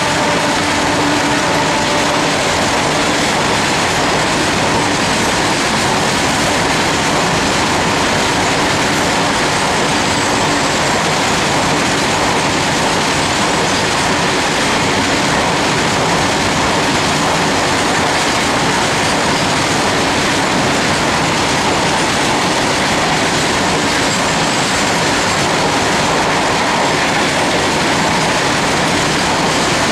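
Long freight train of covered goods wagons running past at speed: a steady, loud noise of wheels and bogies on the rails that keeps up throughout. A train horn that began earlier fades out in the first two seconds or so.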